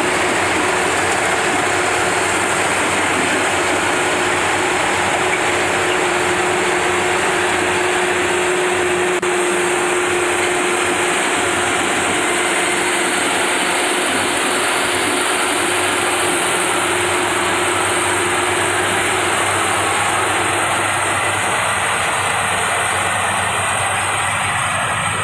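Rice harvesting machine's engine running steadily under load.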